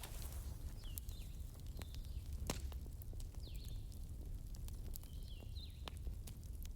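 Wood fire burning with a steady low rumble and scattered sharp crackles and pops, the loudest about two and a half seconds in. Birds chirp over it, short high falling chirps about four times.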